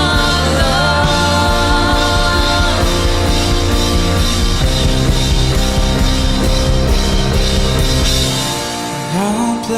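Worship band music with drum kit, bass and sustained chords. About eight seconds in, the drums and bass drop out, leaving held chords and a rising vocal line.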